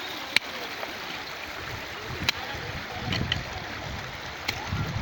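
Water rushing steadily, with a few sharp clicks and some low rumbling swells, the last near the end.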